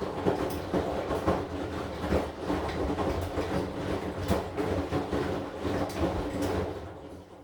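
AQUA AQW-DX12M drum washing machine running, with its motor humming under an irregular clatter of the turning drum and load. It winds down and stops near the end.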